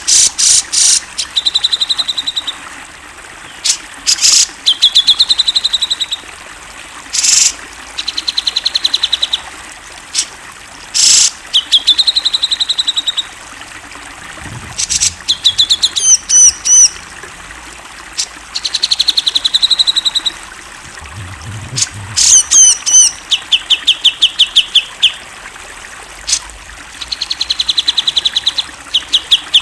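Grey-cheeked bulbul (cucak jenggot) singing loudly and continuously. Its song is repeated fast trills of many quick notes held at one pitch, each lasting a second or two, alternating with short harsh calls and quick looping whistled notes.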